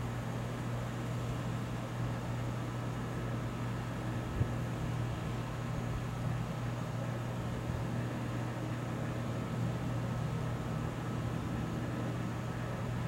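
Heavy rain falling steadily, with a constant low mechanical hum underneath. A single short knock about four seconds in.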